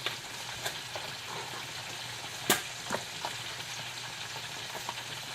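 Light clicks and taps of kitchen containers and utensils while Parmesan cheese is put on a dish, the sharpest about two and a half seconds in, over a steady low hiss and hum.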